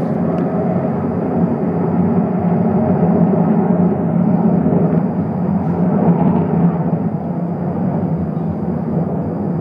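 The unexplained 'strange noise': a very loud, steady low rumbling drone with no clear beat, and a faint thin high tone held above it.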